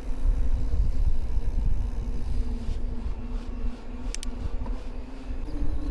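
Amflow e-mountain bike's DJI drive motor giving a steady whine, its pitch stepping up slightly near the end, over the rumble of wind and tyres on the trail. A sharp click about four seconds in.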